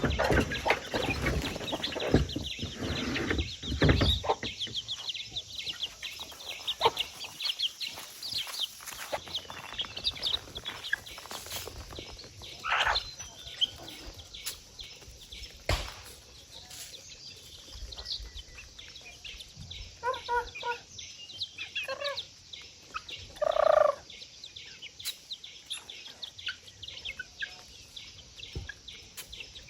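Farm poultry calling: scattered clucks and short calls, with a run of quick stacked calls about 20 to 24 seconds in, the loudest near the end of that run. Clicks and rustling, loudest in the first few seconds.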